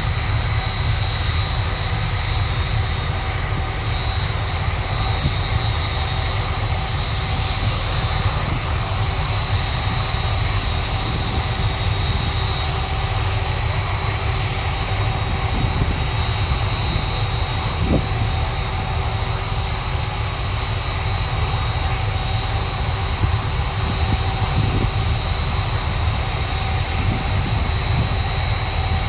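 BAE Hawk T1 jet trainers' Adour turbofan engines running steadily on the ground after start-up: a constant high whine over a low rumble.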